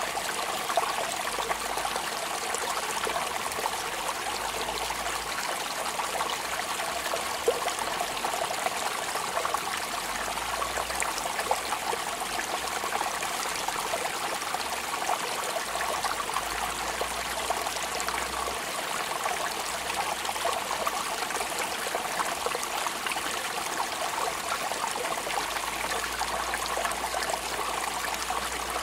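Steady rain falling: an even watery hiss with a few scattered sharper drop ticks.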